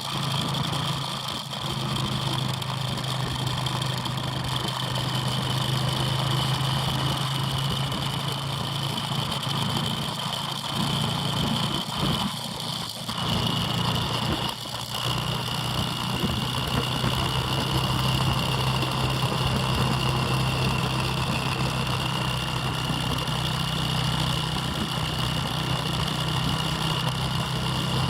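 Lead-out motorbike's engine running at a steady, even speed, with a high whine alongside; the sound briefly drops twice, about 12 and 15 seconds in.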